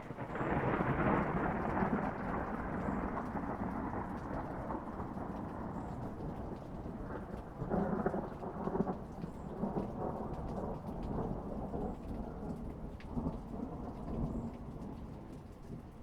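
Thunder rolling over steady rain: a sudden clap at the start, then a long rumble with a second swell about eight seconds in, dying away near the end.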